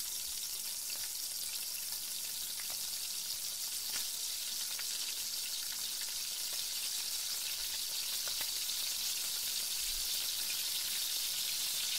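Diced carrots and onions sizzling steadily in oil in a frying pan, with a few faint clicks of a wooden spoon stirring them.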